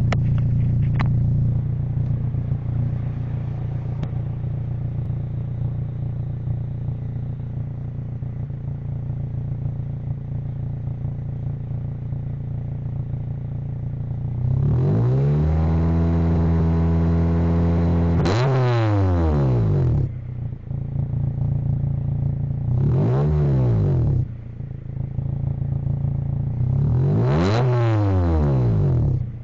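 Car engine breathing through an Espelir titanium aftermarket exhaust, idling steadily and then revved three times: a long rev that climbs and holds for a few seconds about halfway through, then two shorter blips near the end that rise and drop back to idle.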